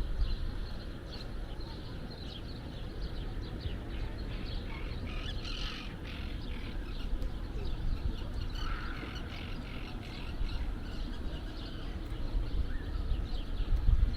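Birds chirping and calling repeatedly in short notes, busiest about midway, over a steady low rumble.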